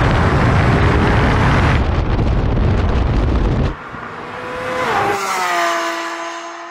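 Porsche 911 GT3 RS's naturally aspirated flat-six accelerating at full throttle, a loud, rough roar heard from on the car. About four seconds in it becomes quieter and clearer as heard from the side of the runway, the engine note dropping in pitch once and then holding steady as the car pulls away.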